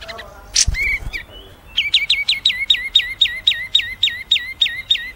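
A songbird singing: a few scattered calls, then a quick run of identical, sharply falling whistled notes, about four a second.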